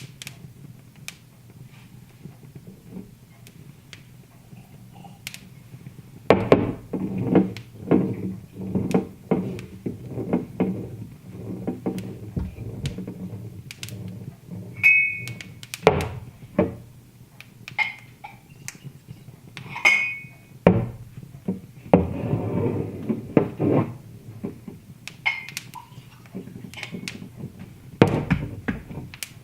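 Irregular knocks and thuds, dense after about six seconds, with a few short glassy clinks, over a low steady hum.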